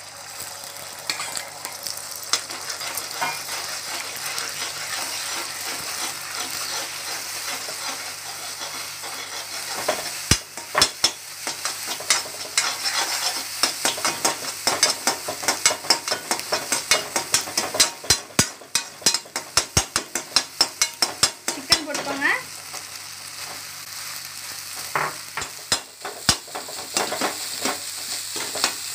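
Beaten eggs sizzling in hot oil in a kadai while a metal spatula scrapes and taps against the pan to scramble them. The tapping comes in quick runs in the middle and again near the end.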